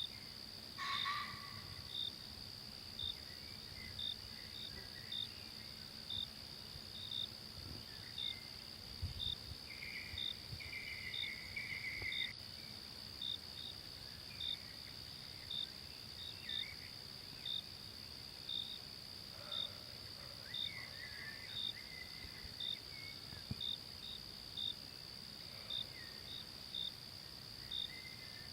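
Forest insect chorus: a steady high-pitched drone with a short chirp repeating evenly, a little more than once a second. A few faint bird calls come and go.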